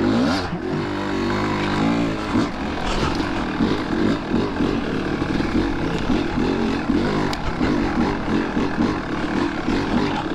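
Two-stroke dirt bike engine running under riding, its revs rising and falling.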